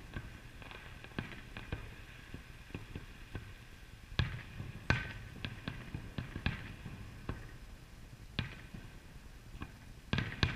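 Aerial fireworks shells bursting, a dozen or more sharp bangs at irregular intervals. The loudest comes about five seconds in, and a quick cluster comes near the end.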